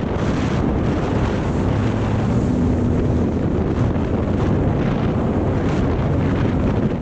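Jet ski engine running while under way on open water, with strong wind buffeting the microphone throughout.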